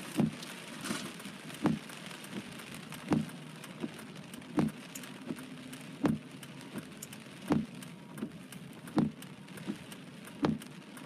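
Heavy rain pattering on a car, with a regular low thump about every second and a half, typical of windshield wipers reversing on the glass.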